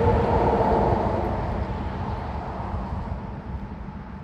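A passing vehicle rumbling, with a faint steady whine at first, fading away as it goes by.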